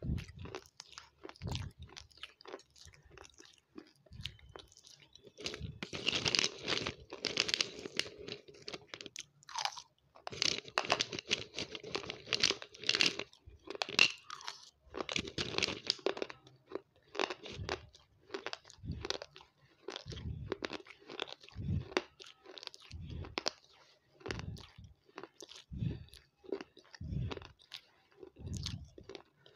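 Close-miked crunching and chewing of crunchy crumbles. The chewing is dense and fast in the first half, then slows to separate, regular bites.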